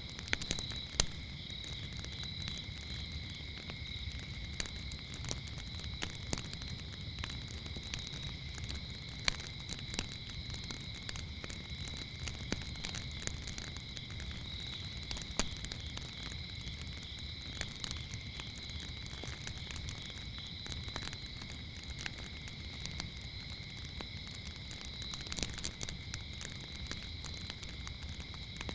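Wood fire crackling with irregular sharp pops over a low rumble of the flames, and crickets chirping steadily underneath, with a higher short chirp repeating about once a second.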